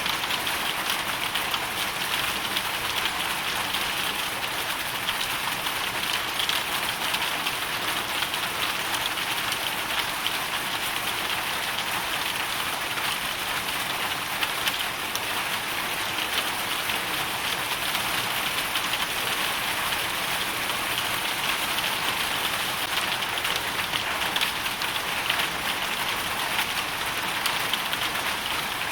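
Hail storm: a dense, steady patter of hailstones and rain striking a surface, with many fine ticks over a constant hiss.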